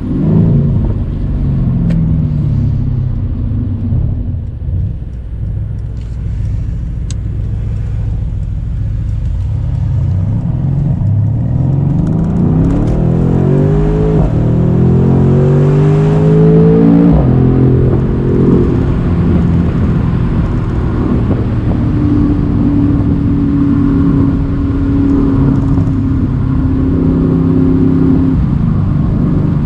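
Mercedes-AMG C63's twin-turbo V8 running at a steady low pitch, then accelerating, its note rising through two gears with upshifts about halfway through and a little later, after which it settles into steady cruising.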